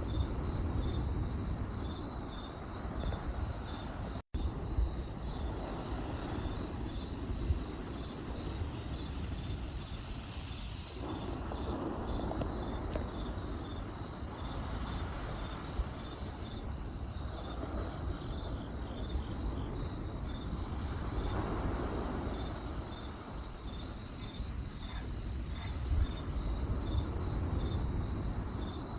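Crickets chirping in a steady, regular pulse over the low rumble and crackle of a campfire, with a few sharp pops from the fire. The sound cuts out for an instant about four seconds in.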